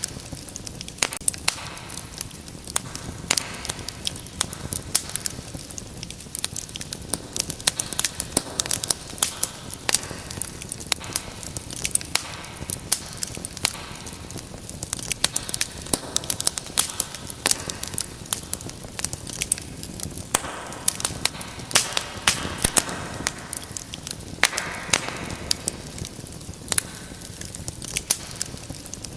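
Wood fire burning in a fireplace, with irregular sharp pops and crackles over a steady low hiss of flame.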